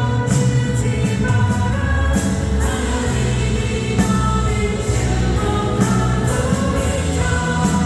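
Christian worship song: several voices singing together over a full band accompaniment with a steady bass and regular cymbal strokes.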